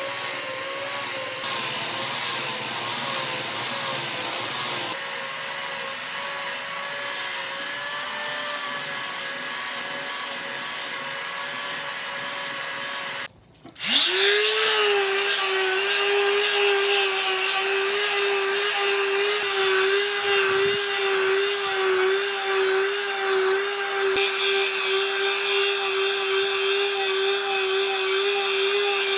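An electric power tool's motor running steadily on wood. About 13 seconds in it cuts out briefly, then spins back up with a rising whine and runs steadily at a slightly lower pitch.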